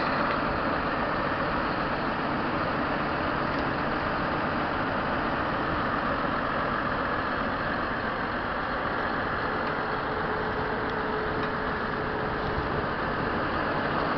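John Deere 7930 tractor's 6.8-litre six-cylinder diesel engine running steadily.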